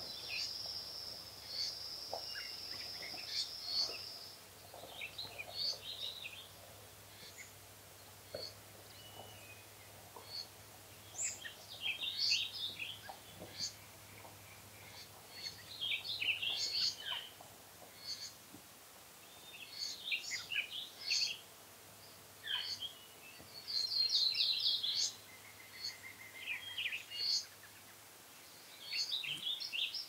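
Several songbirds singing, short chirped phrases every second or two with pauses between. A high, thin, steady buzz runs for about the first four seconds.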